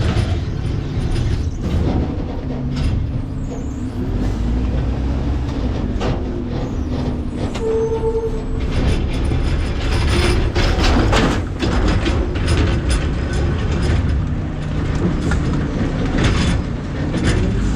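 McNeilus ZR rear-loader garbage truck's hydraulic packer working through the hopper and crushing trash, with irregular cracks, knocks and clanks over the steady run of the truck's engine.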